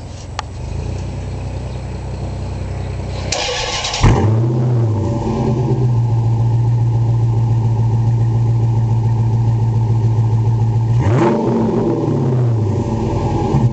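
Dodge Challenger SRT8's 6.1-litre Hemi V8 through a JBA cat-back exhaust: a brief crank about three seconds in, then it fires with a rev flare and settles into a steady, loud idle. About eleven seconds in it is blipped once, rising and falling back to idle.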